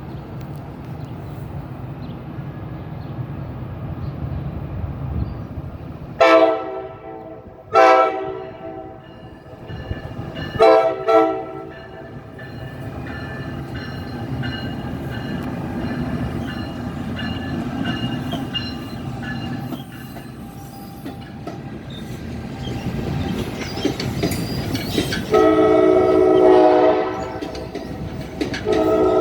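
NJ Transit train passing with a steady rumble of wheels on rail, sounding its multi-note horn: two blasts about 6 and 8 seconds in, a quick double blast near 11 seconds, and a longer blast followed by another near the end. A thin high squeal runs under the rumble for several seconds after the first blasts.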